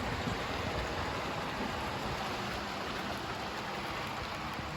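Several Hornby 00 gauge model trains running at once on the layout: a steady whirring rumble of small motors and wheels on the track.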